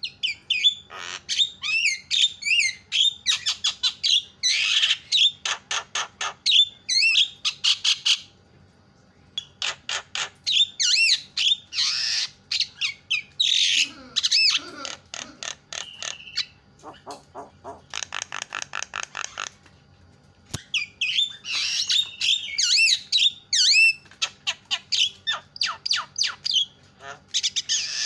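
Javan myna (jalak kebo) in loud, chattering song: fast runs of harsh squawks, sharp repeated clicks and whistled notes in long bursts, broken by short pauses about 9 seconds and 20 seconds in.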